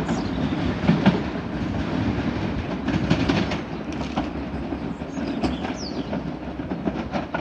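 Southeastern Class 375 Electrostar electric multiple unit pulling away, its wheels clicking over rail joints above a steady running noise that slowly fades as the train draws off.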